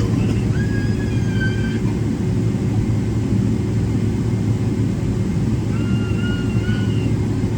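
Steady low cabin rumble of a Boeing 777-300ER taxiing, its GE90 engines at taxi power, heard from inside the passenger cabin, with a steady hum underneath.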